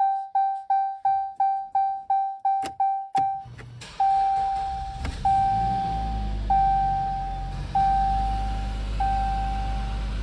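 Car dashboard warning chime beeping quickly, about three times a second, then a couple of sharp clicks about three seconds in. The Jeep Cherokee's engine then starts and runs at a steady idle while a slower chime repeats about once a second.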